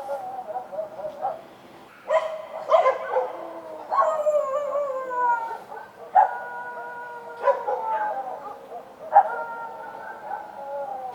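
Street dogs barking and howling: about six sharp barks a second or two apart, each drawn out into a long howl, some falling slowly in pitch.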